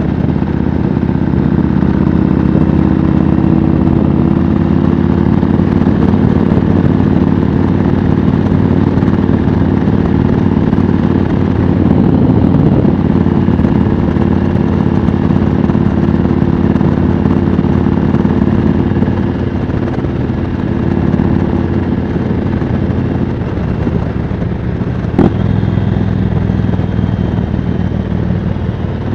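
Yamaha Road Star's V-twin engine running steadily under way. Its note drops in pitch and level for a few seconds past the middle, and a single sharp click sounds near the end.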